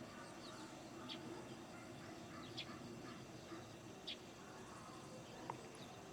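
A bird giving short high chirps about every second and a half, over a faint steady outdoor background.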